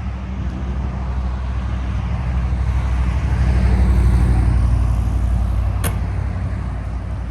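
A motor vehicle driving past, its low engine rumble swelling to a peak about four seconds in and then fading. A single sharp click comes near the end.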